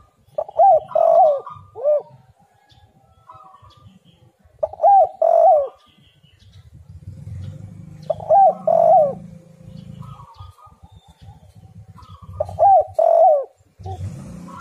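Spotted dove (tekukur) cooing: four loud phrases of two or three arched notes each, one about every four seconds.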